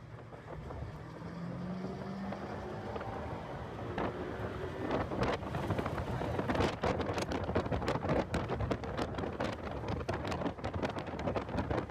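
Heavy wind buffeting on the microphone of a car at speed on a race track, with the car's engine faint underneath; the buffeting grows louder and choppier from about four seconds in.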